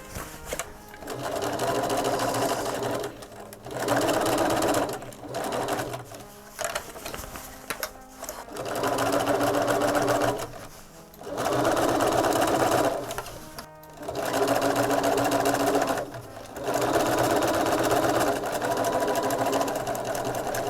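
Bernina 335 domestic sewing machine stitching in short runs of a second or two, stopping briefly and starting again many times, while topstitching along a fabric edge.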